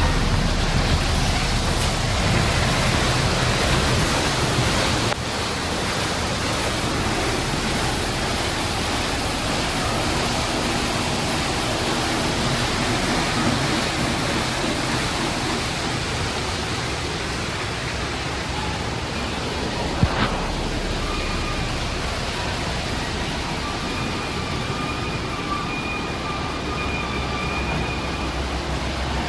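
An automatic tunnel car wash running: a steady rush of water spray and wash equipment working over a car, with a sharp click about twenty seconds in and faint high whining tones near the end.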